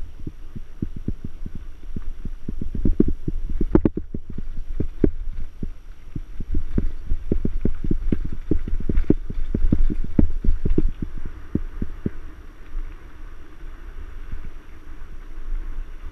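Mountain bike jolting over rough trail: a rapid, irregular clatter of knocks and thumps over a low rumble, heaviest in two stretches and easing off near the end.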